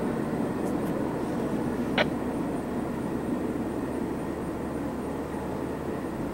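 A CSX double-stack container train rolling along the rails, a steady rumble that slowly fades as the train moves away. There is one brief high squeak about two seconds in.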